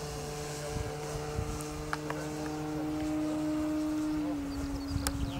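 Electric motor and propeller of an RC Cessna 182 model plane running with a steady whine; its pitch steps down slightly about four seconds in.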